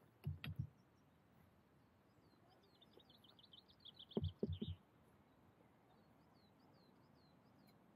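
A small bird singing a quick run of high chirps for about two seconds, with a few more scattered chirps later. Two short clusters of low thumps stand out, one just after the start and one about four seconds in.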